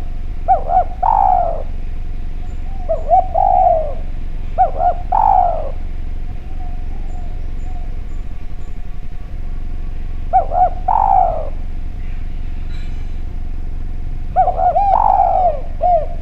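Spotted dove (derkuku / tekukur) cooing: five phrases, each a couple of quick short notes followed by a longer falling coo, with gaps of one to five seconds between them. A steady low hum runs underneath.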